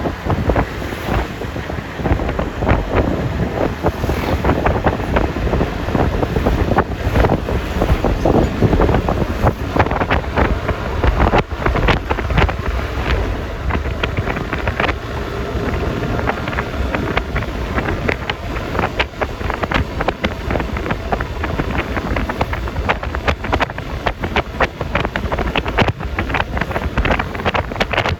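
Wind buffeting a phone microphone on a moving Yamaha Lexi LX 155 scooter, over the steady noise of the scooter and tyres on the road.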